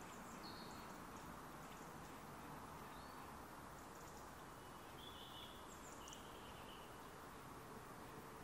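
Faint, quiet forest ambience: a steady low hush with scattered short, high-pitched calls of small birds, a few thin chirps and two longer held notes about five and six seconds in.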